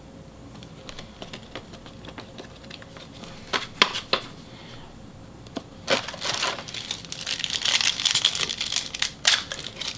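Crinkling of a trading card pack wrapper being handled and opened, with a few sharp taps about three and a half seconds in and steady crinkling from about six seconds on.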